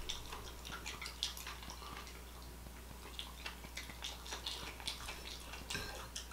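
A person chewing a mouthful of food, with faint, irregular wet mouth clicks and smacks.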